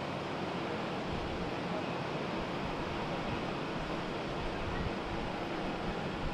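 Steady wind noise on the microphone, with gusty buffeting in the low end.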